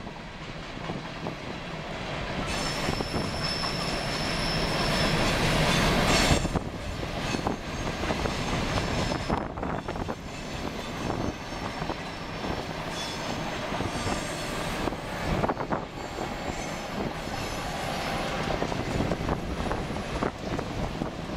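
Coal train's loaded coal cars rolling past: a steady rumble and clatter of steel wheels on the rails. A high wheel squeal sets in about two and a half seconds in and cuts off suddenly near six seconds, at the loudest point. After that the wheels click over the rails in quick, uneven beats.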